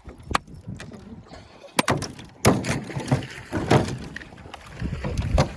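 Wind buffeting the microphone and water rushing and splashing around a small boat, with several sharp knocks.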